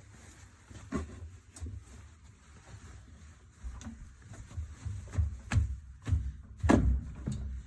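Irregular knocks and thumps of handling at a washing machine as a shower curtain jammed in it is tugged at, with the loudest thump near the end.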